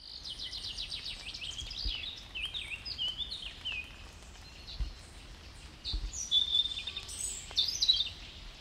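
Several songbirds singing: a busy run of quick chirps and short trills, over a faint low rumble.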